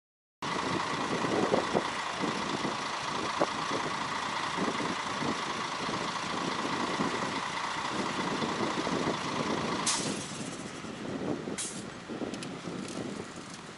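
Heavy roadworks machinery running, with a steady high whine over the engine noise that cuts off about ten seconds in; after that, quieter street noise with a few sharp clicks.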